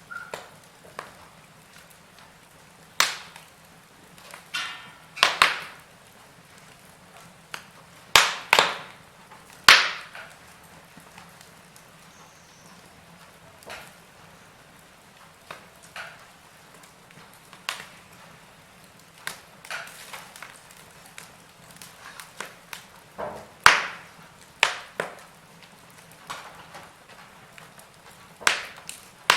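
Wood fire crackling in a fireplace: sharp pops and snaps at irregular intervals over a faint steady hiss, with the loudest pops bunched together in the first third and a few more near the end.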